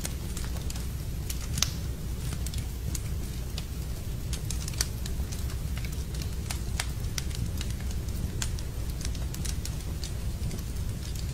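Wood fire crackling in a fireplace: irregular sharp snaps and pops over a steady low rumble, with a louder pop about a second and a half in and another at about five seconds.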